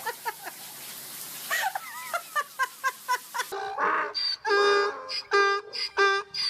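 Animal calls: a quick run of short, high chirping yelps over hiss, then, after a sudden change about halfway through, loud repeated honking calls about twice a second.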